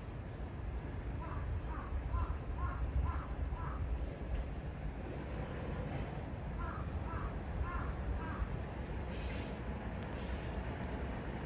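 A crow cawing in two runs of short, repeated caws: about six, then after a pause about four more, over a steady low rumble.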